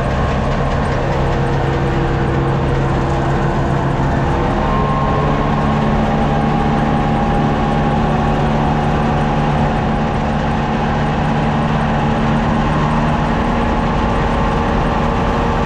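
Maize grain dryer running: its fan and motors give a loud, steady mechanical drone with several humming tones, which shift slightly in pitch about four to five seconds in.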